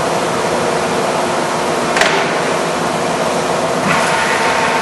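American Pacemaker heavy-duty engine lathe running under power, its spindle at 183 RPM: a steady mechanical hum with several steady gear tones. There is a sharp click about two seconds in and another near four seconds, after which a new steady tone joins.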